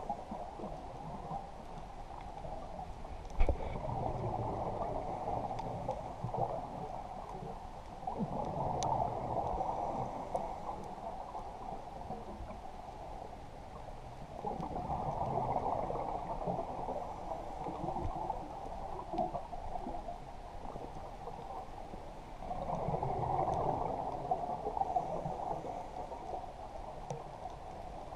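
Muffled water sloshing and gurgling heard through a GoPro's waterproof housing. It swells and eases in surges roughly every seven to eight seconds, with one sharp knock about three seconds in.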